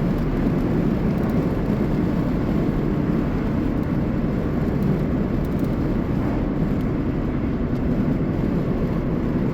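A car driving at a steady speed, with a constant low rumble of engine and tyre noise on a dry road, heard from inside the car.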